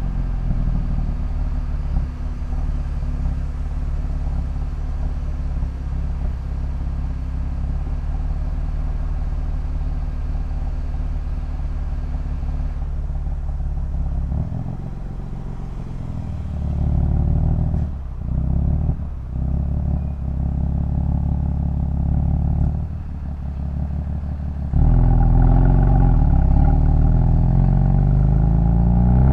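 BMW M3 F80's twin-turbo inline-six idling steadily just after start-up. About halfway through the sound becomes uneven and dips a few times as the car moves off. Near the end it gets clearly louder as the car pulls away.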